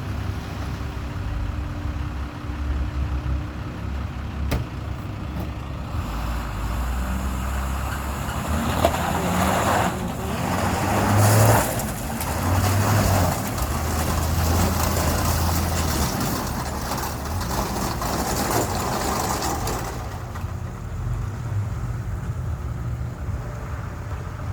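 An engine running steadily with a low hum, while a louder rushing noise builds about six seconds in, peaks in the middle and eases off near the twentieth second.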